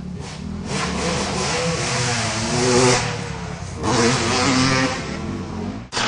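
Two-stroke Suzuki RM250 motocross bike revving hard, its pitch climbing, easing off about three seconds in, then back on the throttle a second later. The sound cuts off suddenly near the end.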